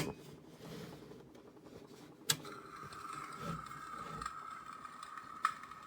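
Switch clicks on a Shinic electric fireplace heater. About two seconds in, a steady high-pitched whine starts, and sparse, tinny fire-crackle clicks from the heater's built-in sound effect play over it.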